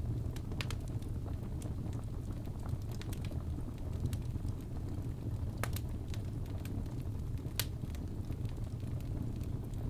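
Fireplace fire crackling: a steady low rumble with scattered sharp pops at irregular intervals.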